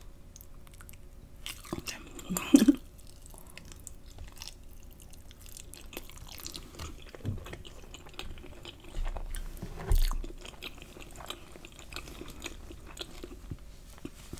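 A person chewing food, with soft wet mouth sounds and scattered small clicks. There are a few louder bumps, the loudest about two and a half seconds in and another about ten seconds in.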